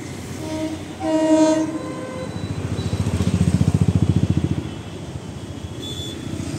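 An Indian Railways electric train's horn gives a short blast about a second in. A few seconds later, passing wheels clatter over the rail joints in a fast rhythm that swells and fades.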